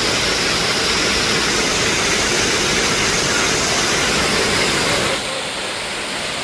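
Waterfall rushing: a loud, steady noise of falling water, dropping off suddenly about five seconds in.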